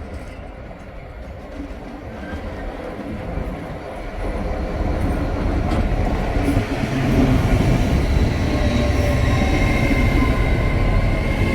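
Train moving through a station: a low rumble that grows steadily louder from about four seconds in, with a thin high whine joining near the end.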